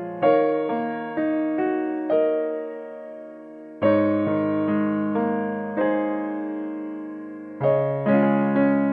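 Background piano music: gentle chords and single notes struck and left to ring and fade.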